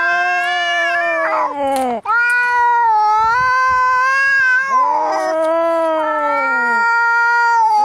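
Two cats yowling at each other in a fight: long, wavering, drawn-out caterwauls, the two voices overlapping. The calls break off briefly about two seconds in and again around five seconds in before starting up again.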